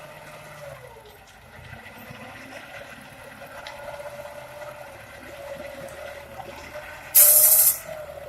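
Machinery engine running steadily, most likely the clearing tractor, with a whine that drops in pitch and rises back in the first couple of seconds. About seven seconds in comes a loud burst of hissing noise lasting about half a second.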